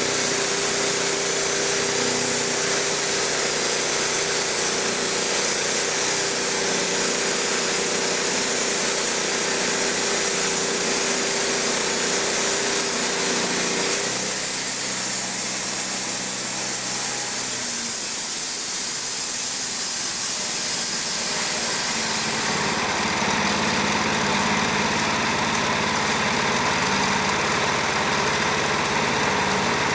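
Woodmizer LT15 portable band sawmill running steadily under power. About halfway through the tone changes and the level dips slightly for several seconds, then it settles into a steady hum on different, lower notes.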